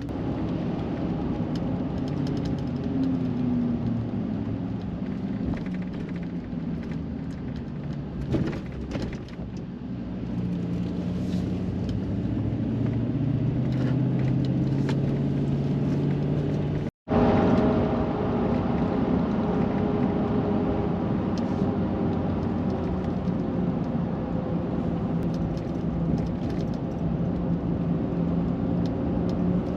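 Chevrolet Silverado 2500HD 4x4 pickup driving, its engine and road noise running steadily. The engine pitch rises gradually about halfway through, and the sound breaks off for a split second just past the middle before the drive carries on.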